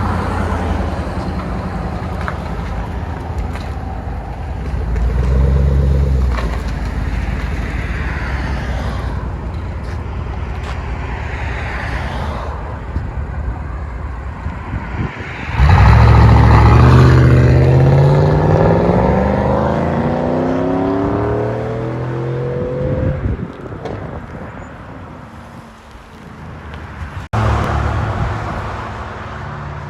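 Chevy 5.3-liter V8 running through a muffler-delete exhaust with the resonator kept, with a short rev about five seconds in. About halfway it accelerates hard, the pitch climbing steadily for several seconds before falling away. A sharp click comes near the end, then the engine is heard again.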